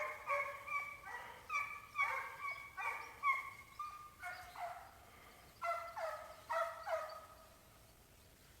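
Pack of coyote hounds giving voice on a coyote trail: a string of short bays and barks, about two a second, some dropping in pitch at the end, that stops about seven seconds in. The hounds are this vocal when they are chasing or tracking a coyote.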